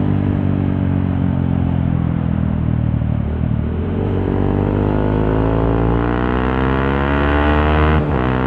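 Honda CRF150L's single-cylinder four-stroke engine through a Norifumi Torc aftermarket exhaust while being ridden, heard from inside the rider's helmet. The engine pitch dips about three seconds in, then climbs steadily as the bike accelerates, with a sudden break near the end as it shifts up a gear.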